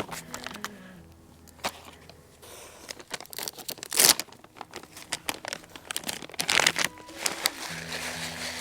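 Dry crinkling, rustling and crunching from something papery or plastic being handled, in irregular clicks and short bursts, with the loudest rustles about four seconds in and again near the end.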